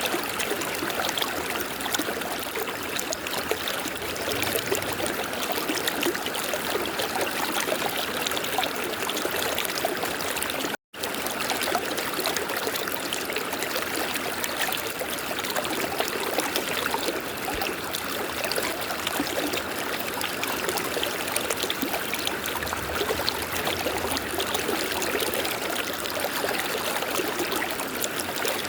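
River water flowing and babbling over rocks, an even rushing with fine splashing detail. It cuts out completely for a split second about eleven seconds in, then carries on unchanged.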